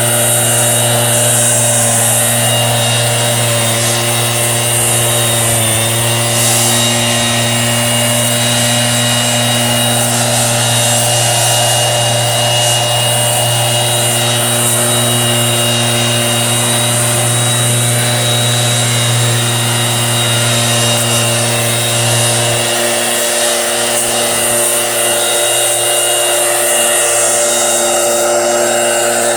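An orchard sprayer's motor runs steadily with a constant hum and hiss. Its lowest hum drops away about three-quarters of the way through while the rest keeps running.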